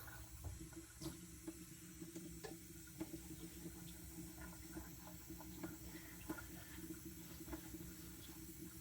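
Steel knife blade being stroked back and forth on a wet whetstone under firm pressure, thinning behind the edge: faint wet scraping with small scattered ticks, over a steady low hum.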